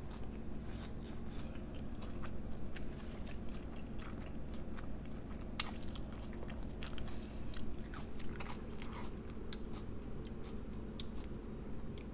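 Close-miked chewing of a mouthful of poke bowl: wet mouth sounds with many small crunches and clicks, over a steady low hum.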